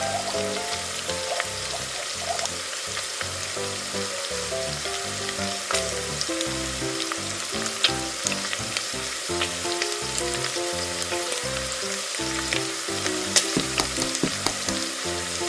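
Steady sizzling frying sound from a toy kitchen stove with its burner lit, under background music with a simple stepping melody. A few light plastic clicks come near the end.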